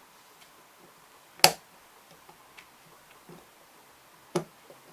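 Sharp metallic clicks as a retaining ring is worked off an angle grinder's armature shaft beside its bearing: one loud click about a second and a half in, and another near the end.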